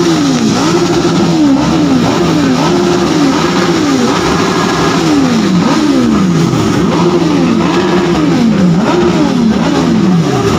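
Superbike engines revved over and over, the pitch rising and falling about once a second, with revs from more than one bike overlapping.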